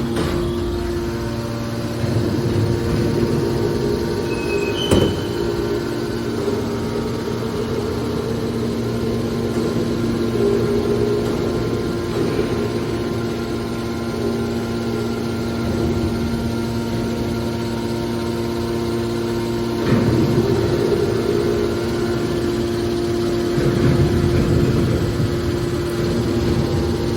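Hydraulic aluminum scrap baler running: a steady machine hum at a constant pitch, with a sharp knock about five seconds in and louder, rougher surges around twenty and twenty-four seconds in.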